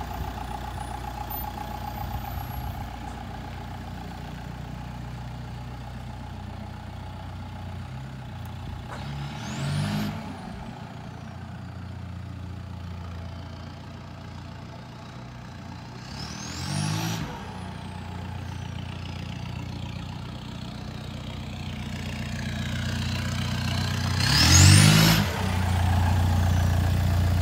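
Volkswagen Mk4 Jetta wagon's engine running as the car drives off, revving up three times. Each rev carries a high whistle that rises in pitch and then falls away. It is louder near the end as the car comes close.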